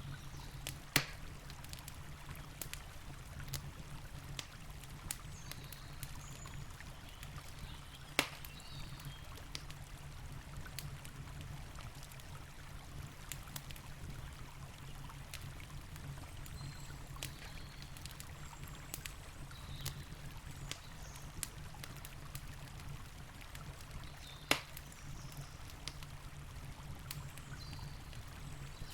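Wood campfire crackling with scattered small clicks and three sharper pops: about a second in, around eight seconds, and late on. Under it runs the steady low rush of a flowing river.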